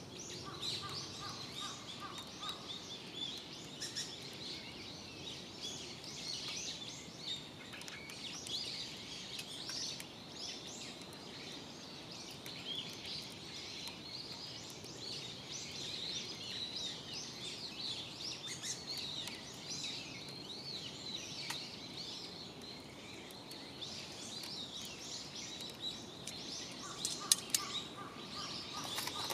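Many small birds chirping and twittering steadily, with a short run of evenly repeated notes near the start and again near the end. A few sharp clicks come near the end.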